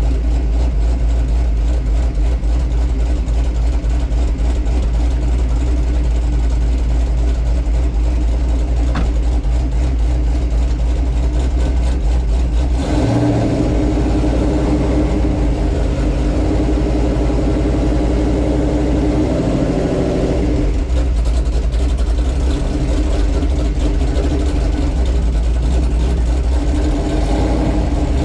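Cammed GMC Sierra's V8, fitted with a Brian Tooley Racing stage 4 camshaft, running as the truck drives. About halfway through, the engine note grows fuller for several seconds, then settles back.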